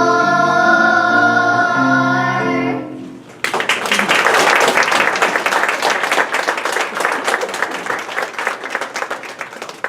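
Children's choir holding the final note of a song over instrumental backing, ending about three seconds in. An audience then bursts into applause, which slowly dies away near the end.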